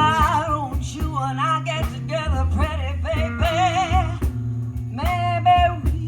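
Live blues band music: held lead notes with a wavering vibrato over a steady bass line, with guitar.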